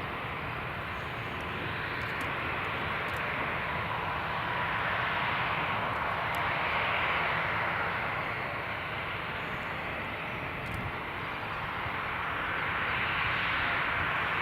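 Jet airliner's engines, a steady rush that slowly swells and eases, loudest about halfway through and again near the end.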